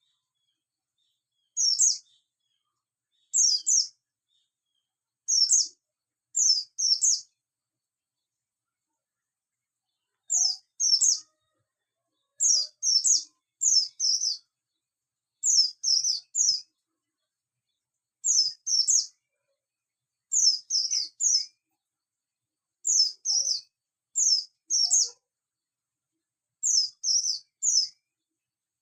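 Oriental white-eye (buxtoni race) calling in short, very high chirps, mostly in quick pairs or threes, repeated every second or two, with a pause of a few seconds about a quarter of the way through.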